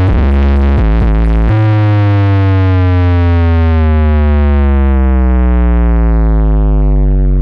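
Loud synthesized bass music, played at full volume through a large sound system: deep bass notes that break off and restart, then from about a second and a half in one long synth tone that slowly glides down in pitch as its brightness fades.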